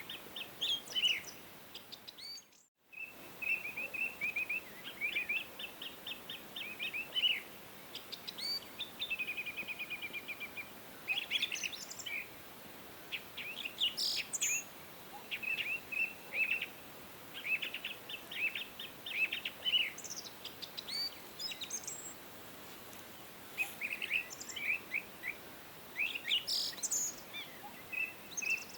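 Songbirds chirping and singing: quick series of short high chirps and trills from more than one bird, over a steady faint hiss. The sound drops out completely for a moment between about two and three seconds in.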